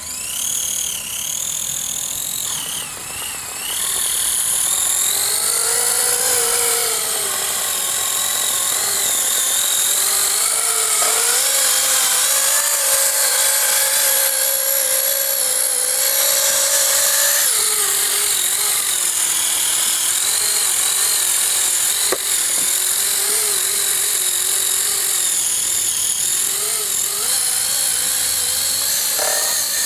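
A homemade steel RC army truck's Tamiya TZ electric motor and geared drivetrain whine steadily, the pitch rising and falling as the truck speeds up and slows. Mixed in is vibration noise that the owner traces to a loose sheet-metal side panel resting near the PTO shaft.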